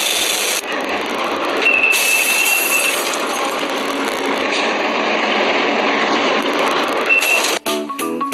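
Rail cars rolling along the track with a steady noisy rumble, and high-pitched wheel squeal twice: a longer squeal about two seconds in and a short one near the end. The squeal is wheel flanges grinding against the rail on a curve.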